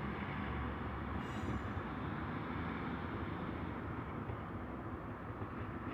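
Class 150 Sprinter diesel multiple unit's underfloor diesel engines running steadily as the train pulls out of the platform.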